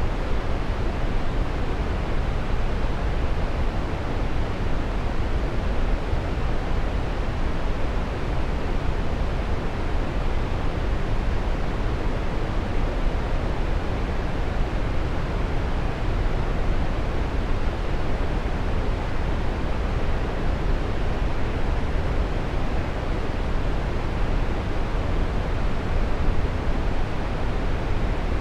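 Waterfall: a steady rush of falling water, deep and even, with no change over the whole stretch.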